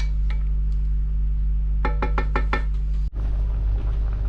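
About two seconds in, a utensil taps a cooking pot five times in quick succession, each tap ringing briefly. A steady low hum runs underneath. The sound drops out for a moment just after three seconds.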